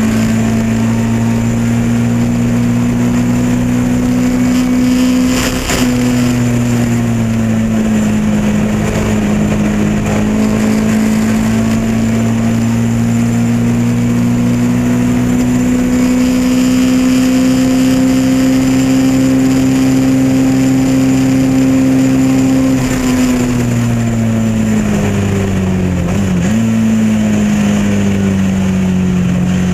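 Lotus Elan race car's engine running at high revs, its pitch climbing slowly under sustained acceleration. About six seconds in the revs dip briefly, then climb again for a long stretch. Near the end they fall away under deceleration, with a quick flick of revs in the middle of the fall.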